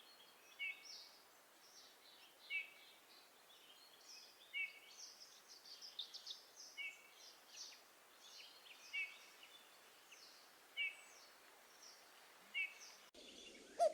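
Small songbird giving a short call at regular intervals, about every two seconds, with higher chirps from other birds between the calls over a faint outdoor hiss.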